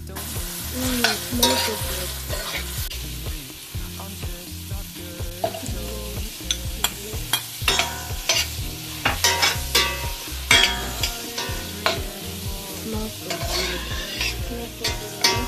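Onions, liver, chicken kidney and gizzards sizzling in a stainless steel pan as they are stirred with a spoon, with repeated sharp scrapes and clinks of the spoon against the pan.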